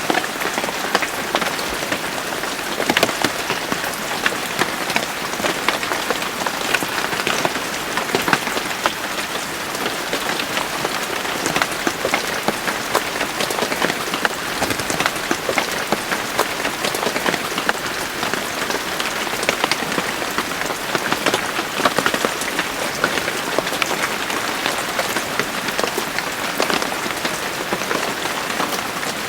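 Steady rain falling on a surface, a dense even patter of many individual drops hitting.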